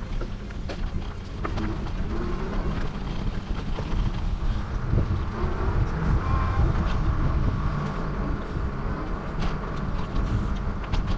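Wind buffeting a GoPro's microphone while riding a bicycle: a steady, fluctuating low rumble.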